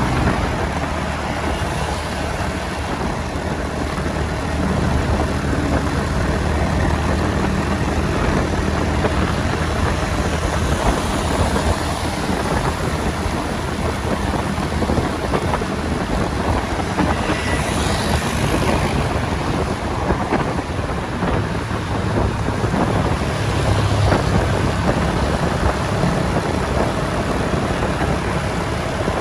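Riding on a motorbike through city traffic: the bike's engine runs steadily under a constant rush of wind over the microphone.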